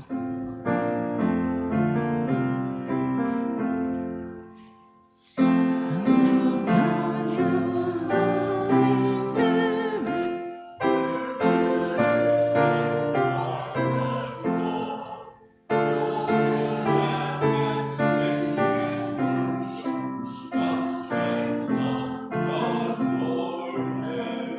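Piano music played in phrases of sustained notes and chords; twice, about five and fifteen seconds in, the sound dies away almost completely before the next phrase starts.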